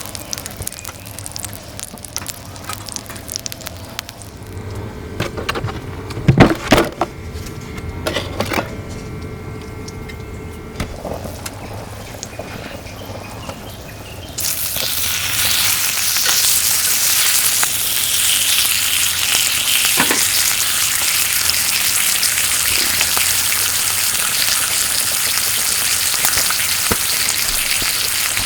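Cookware handled with a few loud knocks and clatters. About halfway through, meat goes onto the hot pan on the kerosene heater and starts sizzling loudly and steadily.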